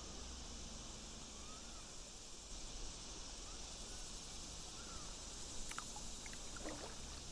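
Quiet river-gorge ambience: a steady high hiss with a few faint chirps and one soft click about two-thirds of the way through.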